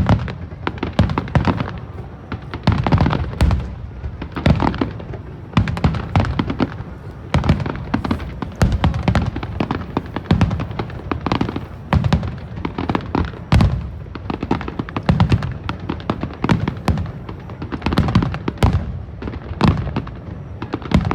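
Aerial fireworks shells bursting in a rapid, continuous barrage of booms and crackles, several per second, in the closing barrage of the display.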